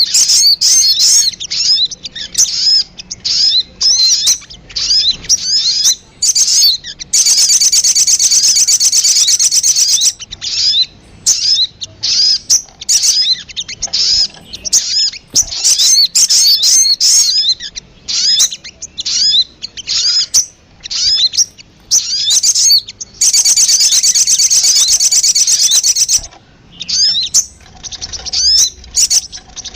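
Recorded song of the sogon (crimson sunbird) used as a bird-lure call: rapid, sharp high chirps in quick series, broken twice by a few seconds of fast, unbroken trill.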